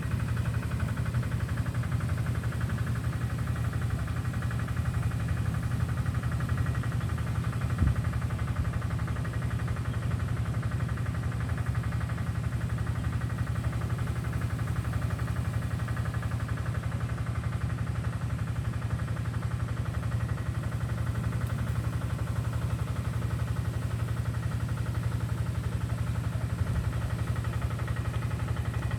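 An engine running steadily at idle: a constant low hum with a fast, even pulse. A single knock comes about eight seconds in.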